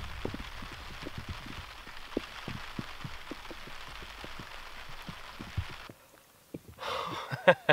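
Light rain on a camp tarp: a steady hiss with many irregular soft taps of drops. It stops abruptly about six seconds in, and a few short, louder sounds follow near the end.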